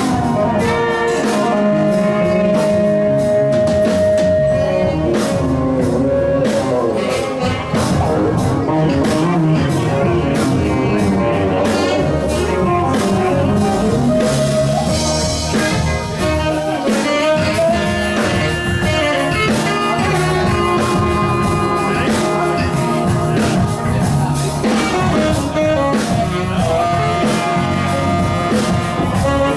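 Blues-rock band playing live: drum kit, bass, electric guitar and saxophones, with held melodic notes over a steady beat.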